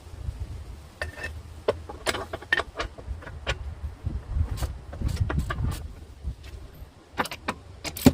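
Metal tools and parts clinking and knocking irregularly, some clinks with a short ring, over a low rumble.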